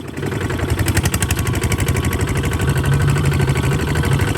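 Kubota RT 140 DI single-cylinder diesel engine running steadily, its rapid, even firing beats clearly audible.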